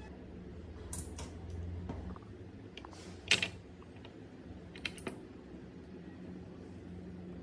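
Scattered light clicks and clacks of hard parts being handled, with one louder clack about three seconds in, over a steady low hum.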